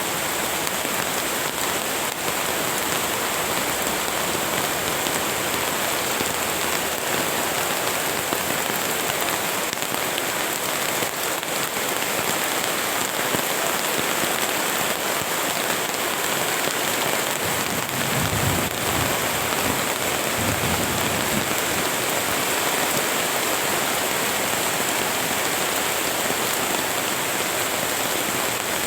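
Steady heavy rain falling, an even dense hiss. A brief low rumble comes about two-thirds of the way through.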